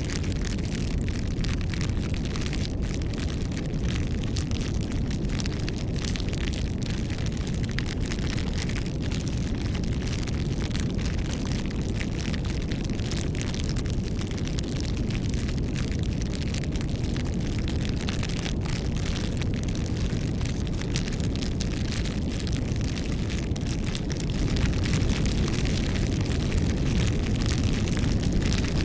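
Bonfire burning: a steady low rumble of flames with frequent small crackles and pops from the burning wood, a little louder near the end.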